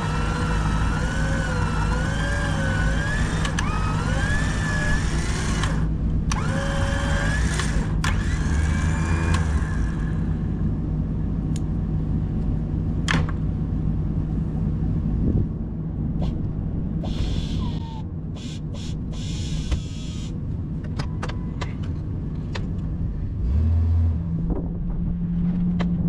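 Truck-mounted electric winch whining under load, its pitch wavering up and down as it pulls a stuck car, over the steady hum of the idling truck engine. The whine stops about ten seconds in, leaving the engine running with scattered clicks and knocks. Near the end the engine note rises briefly.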